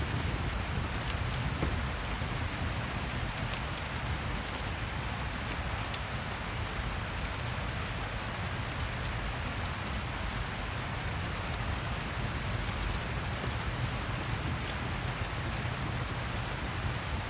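Steady rain falling together with a crackling fireplace: an even hiss over a low rumble, with scattered sharp crackles.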